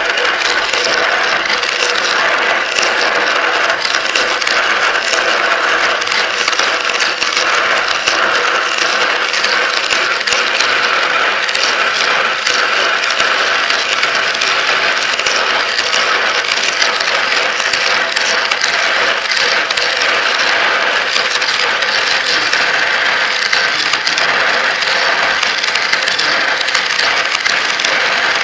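Many glass marbles rolling and clicking through a marble run track and funnels: a dense, continuous clatter of small clicks that never lets up.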